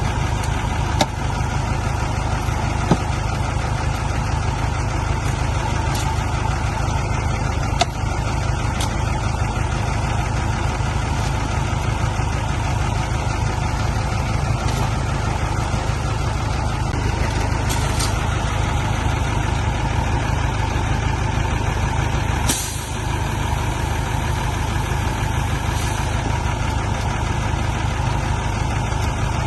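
Heavy diesel engine running steadily with a constant low rumble. A few light clicks, and a short burst of noise about 22 seconds in.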